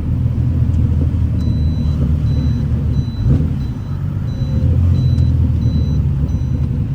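TVR T350c's 4.5-litre Speed-Six Supersport straight-six engine running steadily while the car is driven. From about a second and a half in, a high electronic beep repeats about twice a second over it.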